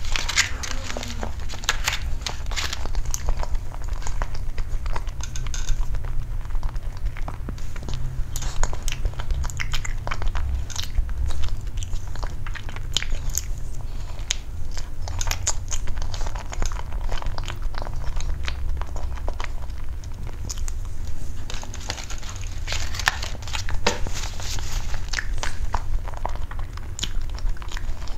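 Close-miked chewing and biting of soft white pastry rolls, with a steady stream of small mouth clicks and smacks and no talking. A steady low rumble sits under it.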